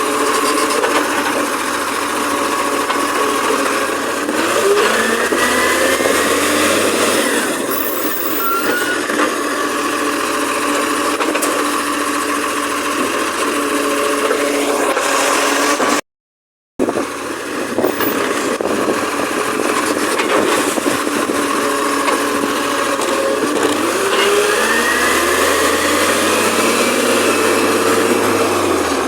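Garbage truck diesel engine running steadily, revving up and back down twice, with the sound cutting out briefly about halfway through.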